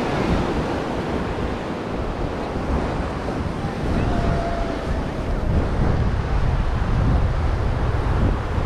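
Ocean surf washing steadily onto the beach, with wind buffeting the microphone in a low, fluttering rumble.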